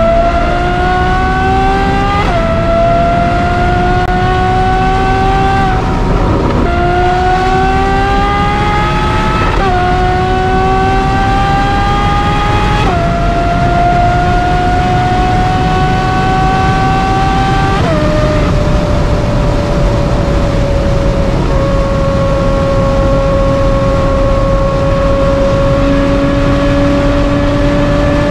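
Ferrari 812 GTS's 6.5-litre V12 with a Novitec exhaust, heard from the driver's seat, accelerating with its pitch climbing in each gear and dropping at about four quick upshifts. After that it settles into a steady cruise for the last ten seconds, over a constant rush of road and wind noise.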